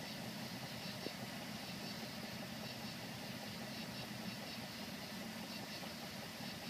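Low, steady rumble of a distant approaching freight train's diesel locomotives, heard at a grade crossing whose gates are down. A small click sounds about a second in.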